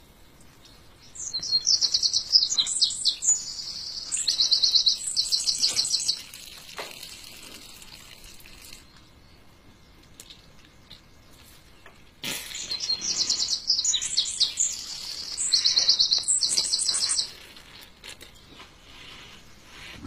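A songbird singing two long, high-pitched phrases made of rapid trills, each about five seconds long, with a pause of about six seconds between them.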